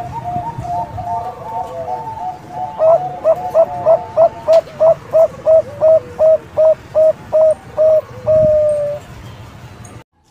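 Young Bangkok-strain zebra dove (perkutut) singing: a few seconds of soft, overlapping warbling coos, then a fast run of about fifteen staccato notes, roughly three a second, ending in one long drawn-out coo.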